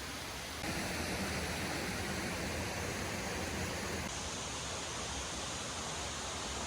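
Steady rushing of waterfall water. It steps up in level about half a second in and eases down a little around four seconds in.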